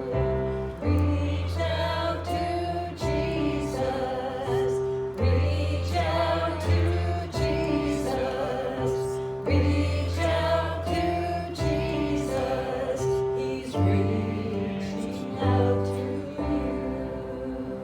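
Hymn singing over a sustained instrumental accompaniment, with held bass notes that change every second or two.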